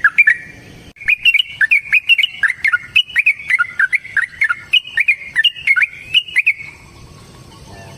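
Yellow-vented bulbul (trucukan) singing its long rolling ropel song: rapid strings of short whistled notes that hook up and down. The song breaks off briefly about half a second in and stops about six and a half seconds in.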